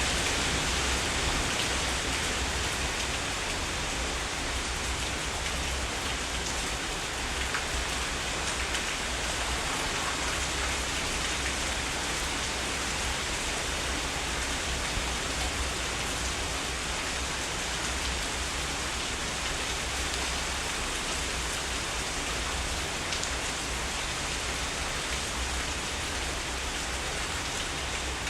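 Heavy rain falling steadily: a dense, even hiss with scattered drop ticks and a steady low rumble underneath.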